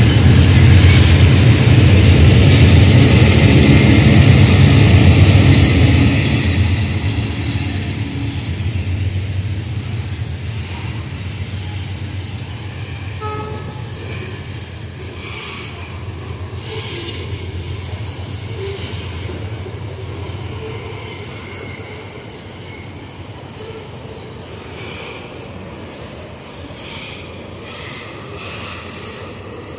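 GE C36-7 diesel-electric freight locomotives passing close by, their engines loud for about the first six seconds, then fading as a train of loaded coal gondola wagons rolls past with a steady rumble and intermittent wheel clacks.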